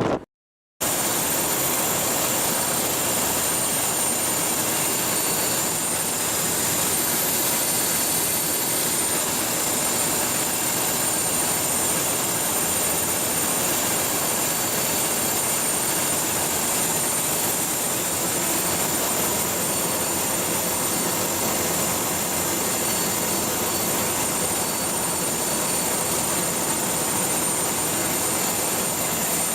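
A ship's diesel main engine running steadily: an even, loud roar with a thin high whine over it. It starts just under a second in, after a brief break.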